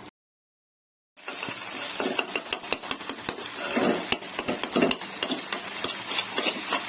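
After about a second of silence, a cooking utensil knocks and scrapes again and again against a metal pan, over a steady hiss.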